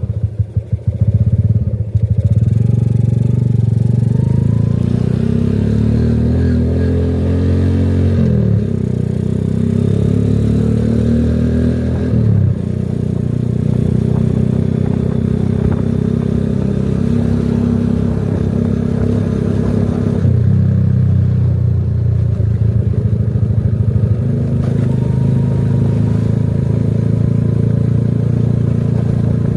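A small engine running steadily under way, its speed shifting a few times.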